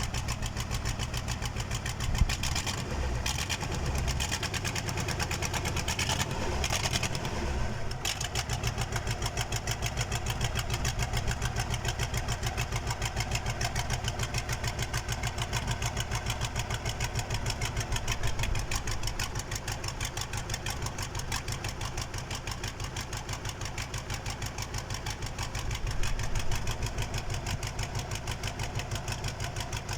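Freshly overhauled KAMAZ diesel engine idling steadily on its first run after the rebuild, with an even, rapid pulsing beat. The sound is rougher for a few seconds early on and swells briefly twice later.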